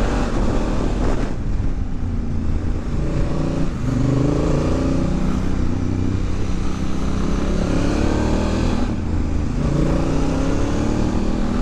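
Honda Africa Twin's parallel-twin engine under way on a twisty road, heard from the rider's helmet. The revs climb and drop several times, with short breaks about one, four and nine seconds in, over a steady rush of wind.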